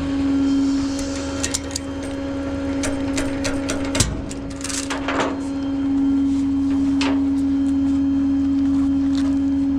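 Rollback tow truck running with a steady hum and low rumble, with scattered clicks and rattles and one sharp knock about four seconds in.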